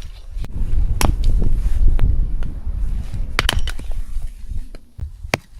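A few sharp knocks of firewood being handled and piled, one about a second in, two close together past the middle and one near the end. Under them is a low, uneven rumble of wind buffeting the microphone.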